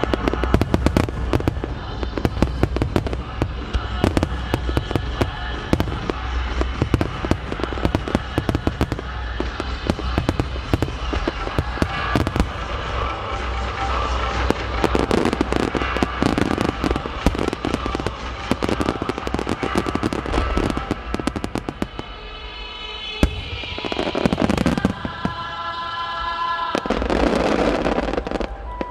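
Dense barrage of aerial firework shells bursting, with many bangs and crackles overlapping, over music. About three quarters of the way through the bangs thin out and the music with its held notes comes forward, with a few big swelling bursts near the end.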